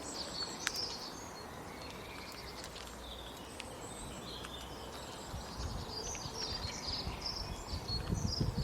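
Small birds chirping in quick clusters of short high notes over a steady outdoor hiss. The chirping thins out in the middle and returns after about five seconds, with low rumbling knocks near the end.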